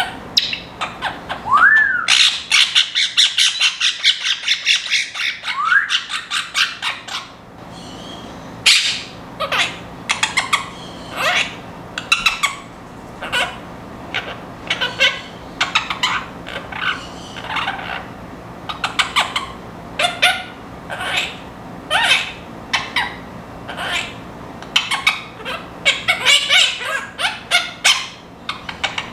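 Pet parrots, including Quaker parrots, calling: rapid chattering and squawks, with two rising whistles in the first few seconds, then many short repeated calls.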